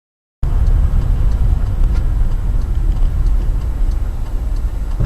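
Low, steady rumble of a vehicle on the move, as picked up by a dashcam inside the cab, with faint regular ticks about every half second or so. It cuts in abruptly about half a second in.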